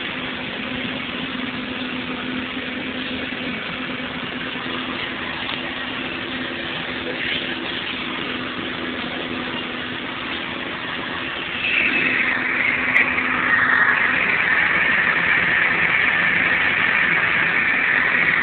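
Car engine idling steadily under a constant hiss. About twelve seconds in, a louder hiss with a high steady tone joins it.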